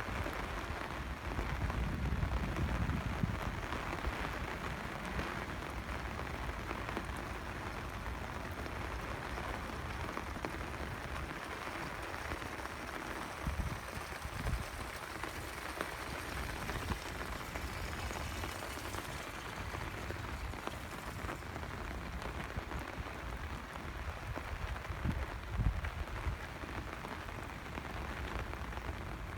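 Steady rain falling and pattering on surfaces, with a few low bumps, the strongest about two seconds in and near the end.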